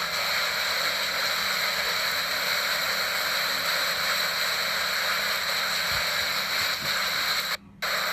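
Typhoon rain and wind in a steady, even hiss. It cuts out for a moment near the end.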